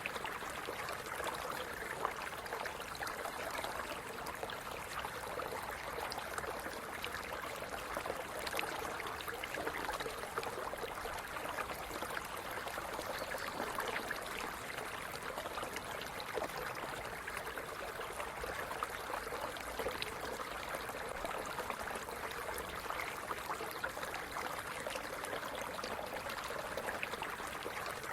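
A stream running steadily over stones, with a continuous babble of trickling and splashing water.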